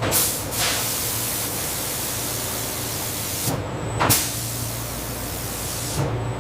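Loud, steady hissing noise, like spray or escaping air, that breaks off briefly about three and a half seconds in and comes back with a short sharp burst.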